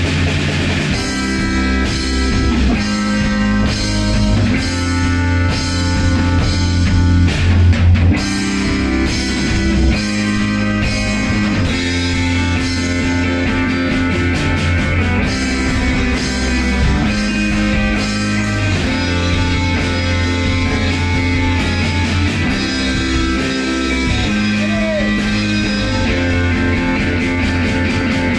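Instrumental rock band playing: electric guitar and bass over a drum kit with a steady beat.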